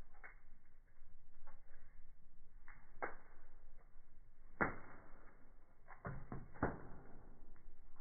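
Firewood burning in a fireplace: scattered sharp pops and crackles over a low hiss, the loudest about halfway through and two more close together soon after.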